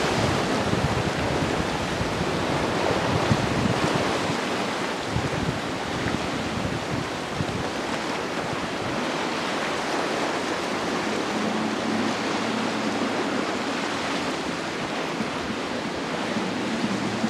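Rushing surf and churning water with wind buffeting the microphone. A low, steady boat-engine hum comes in about halfway through.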